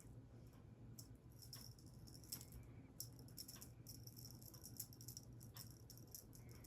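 Faint, scattered rattles and light clicks of a cat playing at a cat tree, over near silence.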